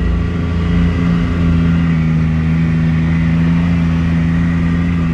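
ATV engine running at a steady speed while riding, its pitch holding even throughout.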